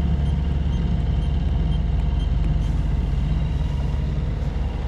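Yanmar 75 hp marine diesel of a sailing yacht running steadily under way, a low, even drone.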